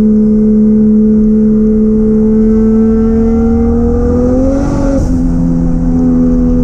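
A turbocharged Toyota 1JZ-GTE VVT-i straight-six in a Nissan 240SX runs steadily while driving, its pitch climbing slowly. About five seconds in there is a short hiss and a break in the engine note, and then it settles again.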